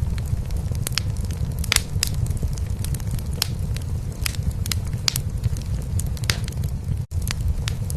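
A cat purring steadily in a low, continuous drone, layered with a wood fire crackling in a fireplace, giving irregular sharp pops. The sound drops out for an instant about seven seconds in.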